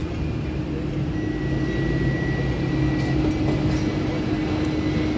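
Hong Kong double-decker electric tram running, heard from on board: a steady rumble with a constant motor hum, and a thin high whine for a couple of seconds in the first half.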